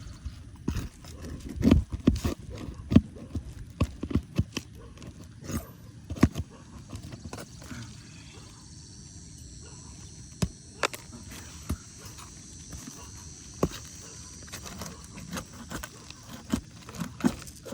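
Irregular knocks, taps and scuffs from handling asphalt shingles and tools on a roof, loudest and most frequent in the first few seconds.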